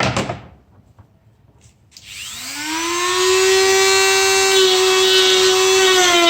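A Dremel rotary tool fitted with a cutting disc, switched on about two seconds in and spinning up with a rising whine that settles into a steady high-pitched whine at full speed, after a couple of handling clicks at the start.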